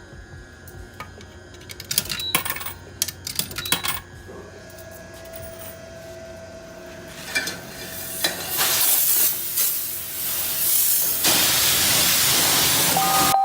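Coins clicking into a self-serve car wash machine, then the high-pressure wand starting to spray with a hiss that grows loud over the second half.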